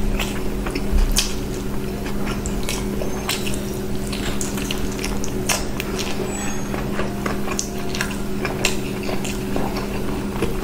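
Close-miked wet chewing and mouth sounds of a person eating mutton curry and rice by hand, full of quick sharp clicks and squelches, over a steady low hum.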